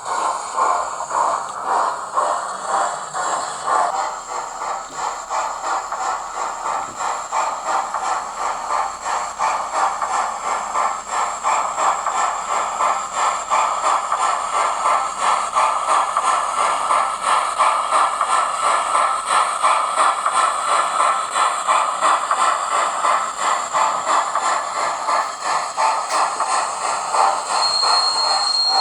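Hornby Flying Scotsman model's onboard sound system playing steady, rapid steam-locomotive chuffing through its small speaker as the model runs. A brief high steady tone sounds near the end.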